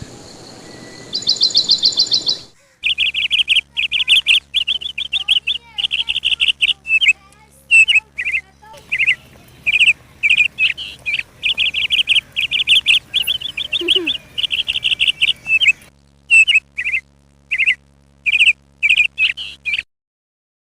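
Songbirds chirping and singing in quick repeated chirps and short trills. There is a brief pause about two and a half seconds in, and the sound stops abruptly near the end.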